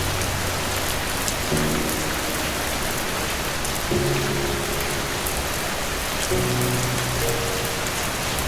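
Steady rain, with slow, soft music underneath: low sustained chords that change about every two seconds.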